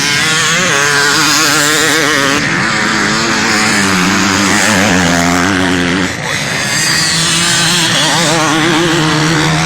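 Several motocross bikes racing past close by, their engines revving up and down over one another with constant throttle changes; the sound dips briefly about six seconds in.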